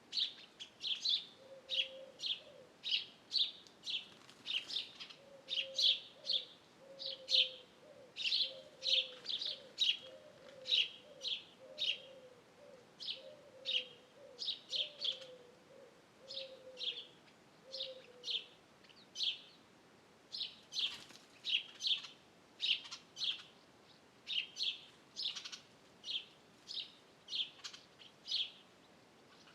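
Wild birds singing: short high chirps repeated about twice a second, with a lower call repeated in a series of short, slightly falling notes through the first half.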